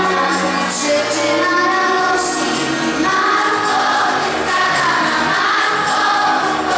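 Choir singing a Polish Christmas carol (kolęda), its held notes moving higher and growing fuller about three seconds in.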